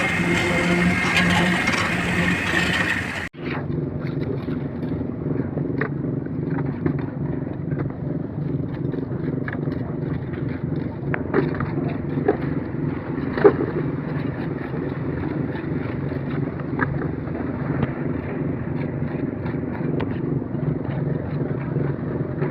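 Small concrete mixer's engine running steadily, with scattered clicks and scrapes of tools and aggregate. About three seconds in the sound drops out briefly and then carries on duller.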